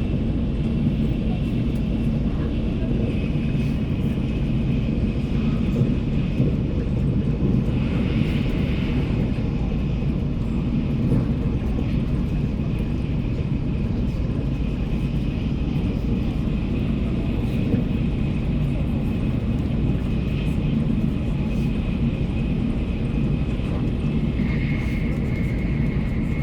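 Shinkansen bullet train running at speed, heard from inside the passenger cabin: a steady low rumble and rush with a faint high whine held over it, which drops slightly in pitch near the end.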